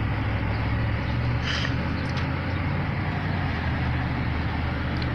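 Steady running noise of a Dodge car heard from inside the cabin while it drives: a low engine and road hum under an even hiss.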